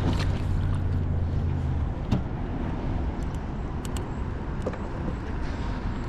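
A low, steady engine hum that stops about two seconds in, over a constant background rush of noise, with a few light clicks or knocks afterwards.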